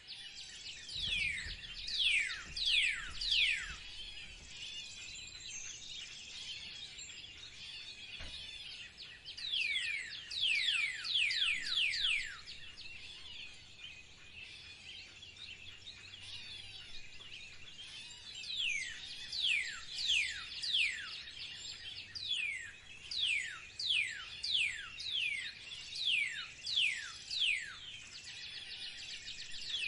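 Wild birds calling: runs of quick, sharply falling whistled notes, a few at a time, come three times, with the longest run near the end. Under them is a constant chatter of other small birds chirping.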